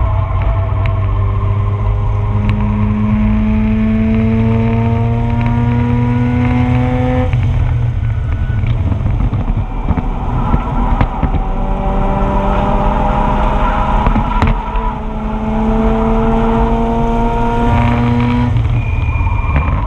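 2004 Mazda RX-8's two-rotor Wankel rotary engine under hard acceleration on track, its pitch climbing steadily through two long pulls that each break off suddenly at a shift or lift, with noisier stretches and scattered clicks in between.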